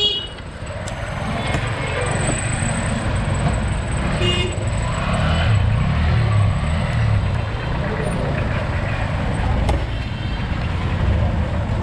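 Road noise while cycling: a steady low rumble of wind and passing traffic, with a brief high toot about four seconds in.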